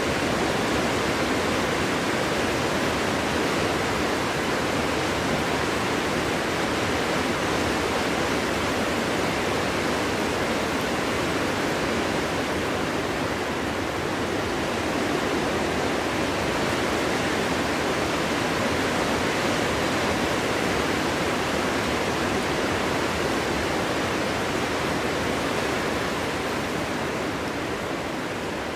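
Strong winter wind blowing through a forest: a steady rushing noise that swells and eases slowly, dipping a little near the end.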